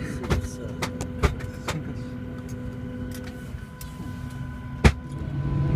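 A steady mechanical hum with a low rumble and scattered light clicks and knocks. One sharp, loud click comes near the end, after which a lower drone sets in and grows louder.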